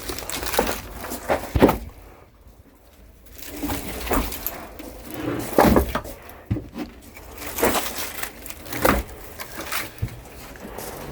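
Firewood logs knocking and clattering as they are handled, a string of irregular knocks and thuds.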